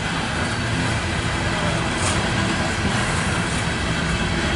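Loaded coal hopper cars of a freight train rolling past close by: a steady, continuous noise of wheels on rail.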